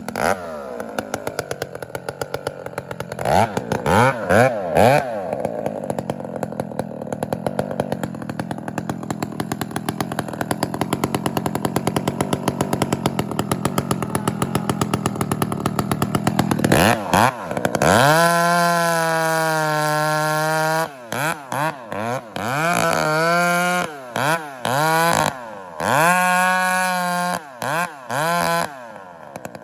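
Gas chainsaw working in a cut, with a few quick revs early on. About eighteen seconds in it runs free at high revs with a steady whine, then the throttle is blipped up and down repeatedly, dropping back toward idle between revs.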